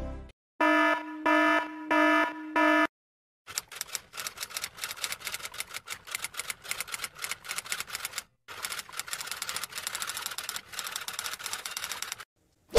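Four short electronic beeps, then a long run of rapid typing clicks, like the keys of a typewriter being struck, with two short pauses.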